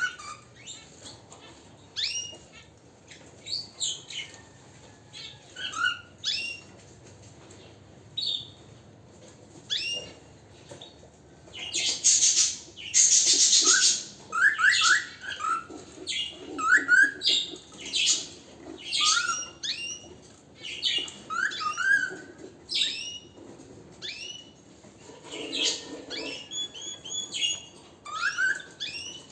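Domestic canary singing: bright chirps and short rapid trills in separate phrases with pauses between, and a loud harsh rasping stretch about twelve seconds in.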